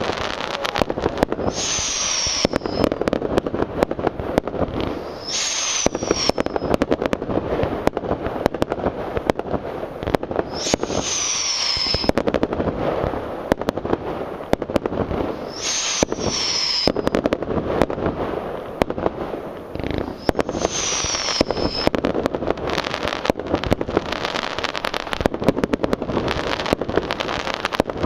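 Professional fireworks display: a dense, continuous run of bangs and crackling bursts. A high whistle that falls slightly in pitch rises out of it about every five seconds, five times in all, each lasting about a second.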